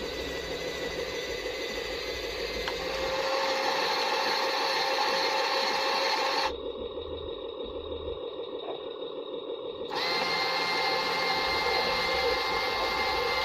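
Small electric motor and gears of a handmade radio-controlled dump truck running with a steady whine. It gets louder about three seconds in, turns duller and quieter for a few seconds past the middle, then comes back at full strength.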